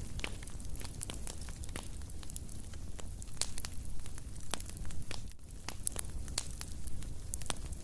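Fire in a fireplace crackling, with frequent irregular sharp pops and snaps over a low steady rumble.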